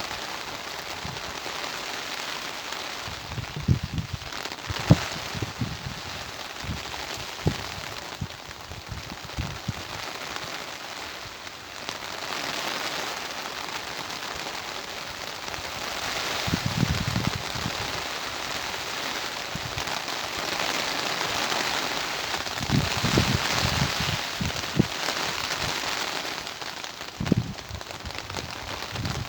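Steady rain falling in a garden, a constant hiss with sharp drops hitting close by. Now and then there is a short low rumble of wind gusting against the microphone.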